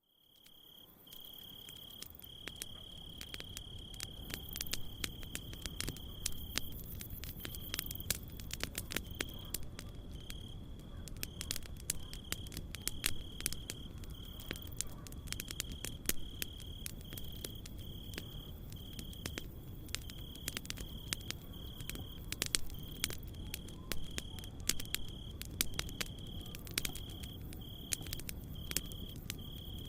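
Campfire crackling with many sharp pops over a low, even rush, fading in at the start. A cricket chirps in a high, steady trill that breaks into regular pulses after about six seconds.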